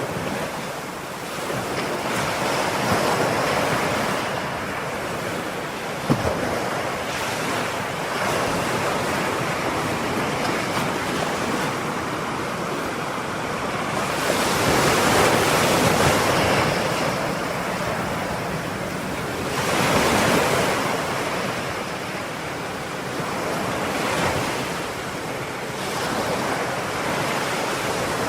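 Ocean surf: waves breaking and washing onto the shore in a continuous rush. The rush swells every few seconds and is loudest about halfway through.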